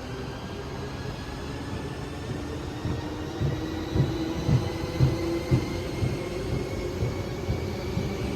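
Vehicle running with a steady low rumble and a faint whine slowly rising in pitch; from about three seconds in, low thumps come about twice a second.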